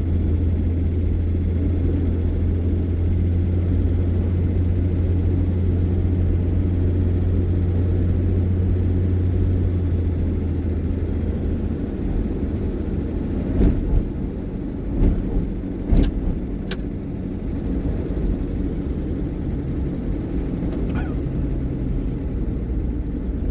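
Heavy vehicle heard from inside its cab while driving: a steady low engine drone with road noise. The drone eases off about halfway through, and a few sharp knocks follow a couple of seconds later.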